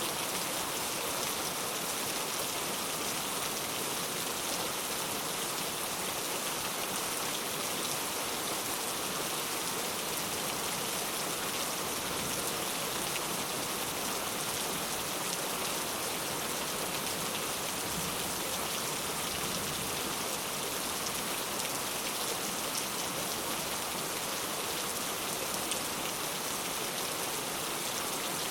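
Steady, heavy rainfall, a dense hiss of drops pattering on a surface with no breaks or changes.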